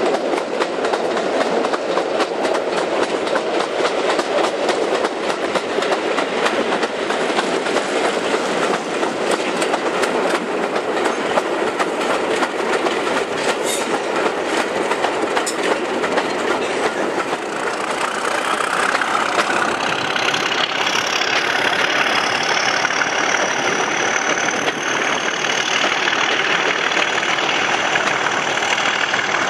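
A passenger train running behind two English Electric class 37 diesel locomotives, heard from an open coach window: a steady rumble of wheels on rail, clicking over the rail joints, with the locomotives' engine noise. In the second half a thin high whine slowly rises in pitch.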